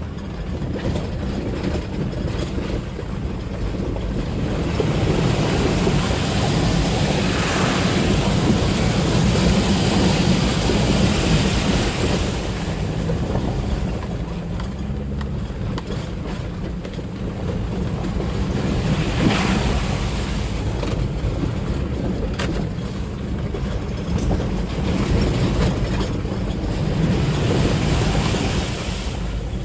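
A car driving through floodwater covering the road: steady engine and road rumble, with long swells of water splashing and hissing against the wheels and underbody, the loudest stretch about a third of the way in.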